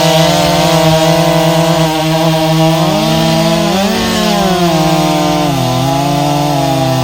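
Two-stroke chainsaw running at full throttle through a log. Its pitch dips as the chain bites into the wood, at about three seconds and again near the end, then picks back up.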